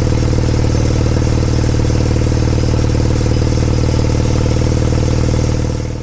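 Kawasaki W800's air-cooled parallel-twin engine running steadily through an aftermarket Yamato exhaust, with an even, unchanging pitch. The sound fades out near the end.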